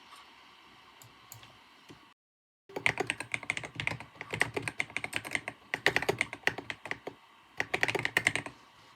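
Fast typing on a computer keyboard, in two runs of rapid key clicks with a short pause between, over a soft room hiss. The sound drops out to dead silence for about half a second around two seconds in, before the typing starts.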